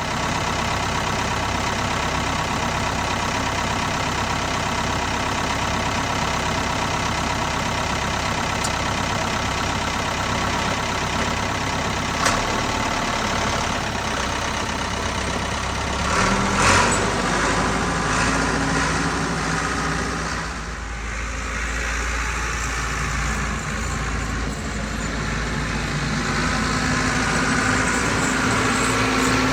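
Tractor engine running steadily. About sixteen seconds in there is a clatter, and the engine note then changes to a deeper, stronger rumble.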